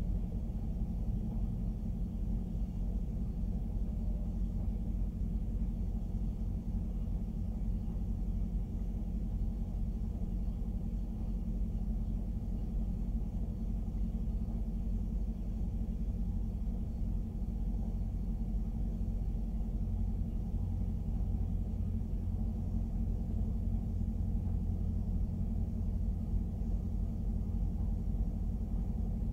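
Covered hopper cars of a freight grain train rolling past, a steady low rumble of steel wheels on the rails.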